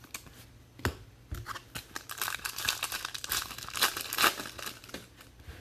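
Foil wrapper of a Topps Chrome trading-card pack being torn open and crinkled: a run of quick crackling rustles that starts about a second in and is loudest near the end.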